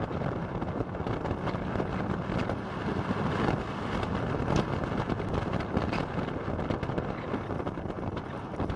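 Motorcycle under way with its engine running steadily beneath heavy wind rush on the microphone, with a few brief taps.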